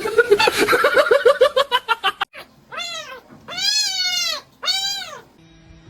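Cat meowing: three long drawn-out meows about a second apart, each rising and then falling in pitch, after a couple of seconds of rapid stuttering cries.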